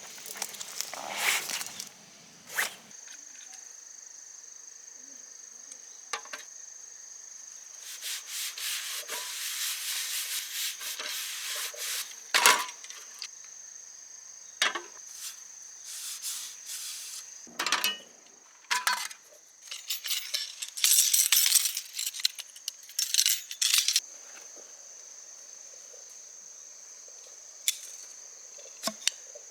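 Things being handled: rubbing, rustling and scraping with scattered sharp clicks and clinks, over a steady high-pitched insect trill.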